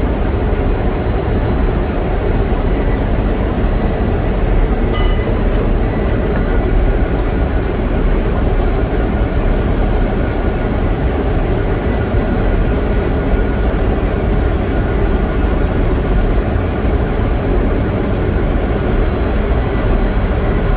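Large generator engine running: a loud, steady mechanical drone that does not change.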